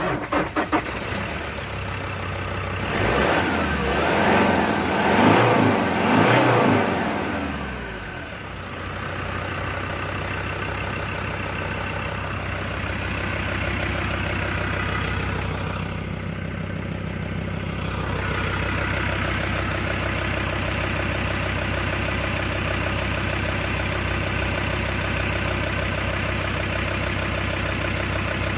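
2015 Mazda BT-50's turbo-diesel engine starting right away, then revved three times about three to seven seconds in before settling to a steady idle.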